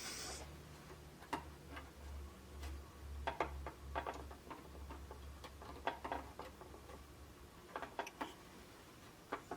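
Irregular small clicks and taps of a diecast model ramp truck's removable ramps and wheel chocks being handled, over a low steady hum that stops about three-quarters of the way through.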